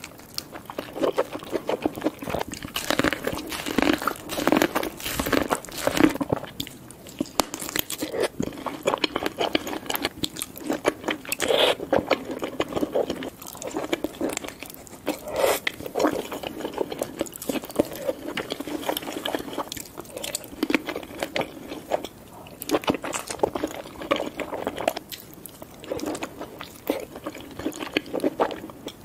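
Close-miked eating of king crab leg meat dipped in cheese sauce: biting and chewing mouth sounds with many irregular clicks and crackles.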